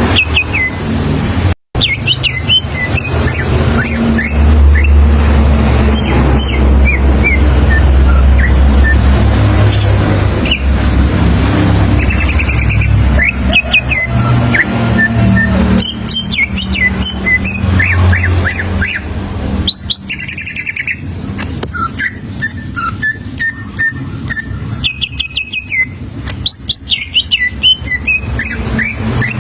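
Greater green leafbird (cucak ijo) singing: a long string of short, quick whistled notes that slide up and down in pitch, over a steady low rumble.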